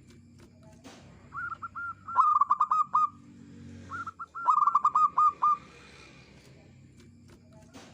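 Zebra dove (perkutut) calling: two bouts of rapid, clipped cooing notes, one about a second and a half in and another around the middle.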